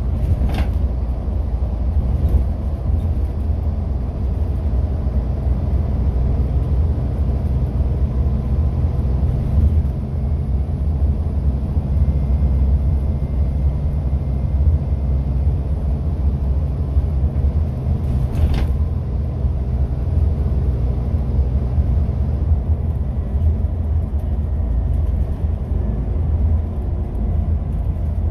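Scania N230UD double-decker bus with its five-cylinder diesel running on the road, giving a steady low rumble. Two brief clicks are heard, one near the start and one about two-thirds of the way through.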